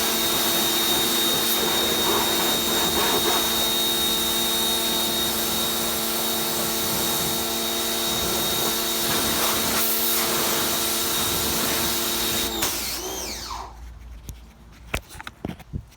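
A small electric motor running steadily with a high whine for about thirteen seconds, then spinning down with falling pitch and stopping. A few clicks follow.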